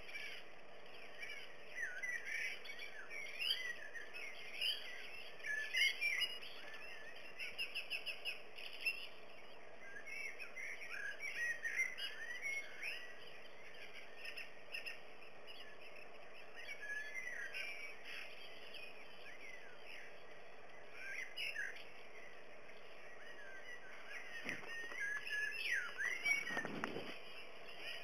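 Songbirds chirping and singing in quick, overlapping calls, with a fast run of evenly repeated notes about eight seconds in, over a faint steady background hiss.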